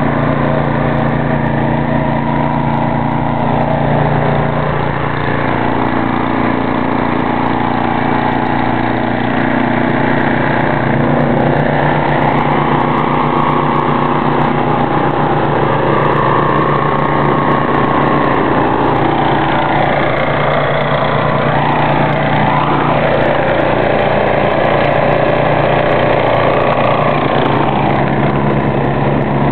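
Ariens snow thrower engine running steadily, its note wavering a little in pitch midway.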